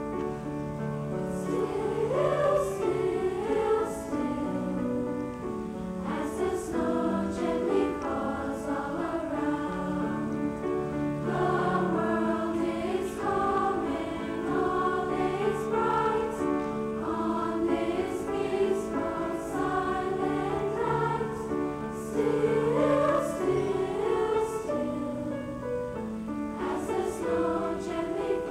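Junior high school choir singing a song with piano accompaniment.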